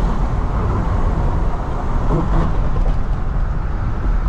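Steady road and engine rumble of a 2000 Ford Econoline E-150 van driving on the highway.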